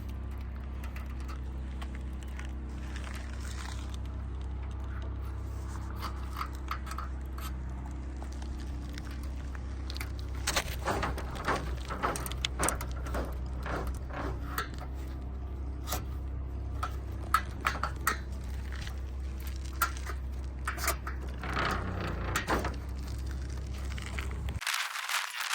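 Wire mesh solar-panel critter guard being handled and fitted, with irregular metallic scraping, clicking and rattling over a steady low rumble. The clicks and scrapes come thick from about halfway through.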